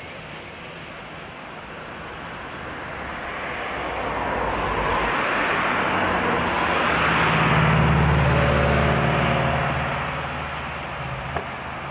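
A train going past, growing louder to a peak about eight seconds in and then fading, with a deep hum at its loudest. A single sharp click comes near the end.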